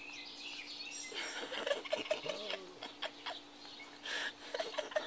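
Backyard birds chirping and calling in quick runs of short notes, in two busy spells: one starting about a second in and another near the end.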